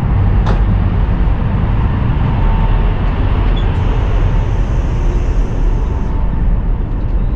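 Running noise of a Chinese high-speed bullet train at speed, heard inside the carriage: a steady low rumble under an even rushing hiss.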